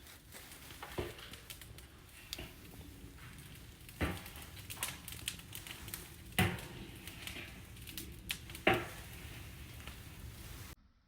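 Small twig fire crackling steadily in a compact secondary-combustion wood stove, with a few sharp pops; the sound cuts off suddenly near the end.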